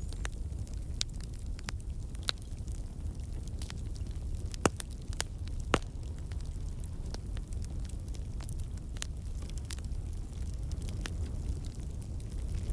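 Wood campfire burning, with a steady low rumble and irregular sharp crackles and pops from the burning logs. Two louder snaps come about halfway through.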